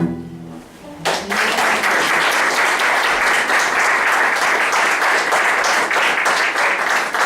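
The final chord of a small string ensemble (two violins, cello and acoustic guitar) dies away, and about a second in an audience starts applauding, clapping steadily to the end of the piece.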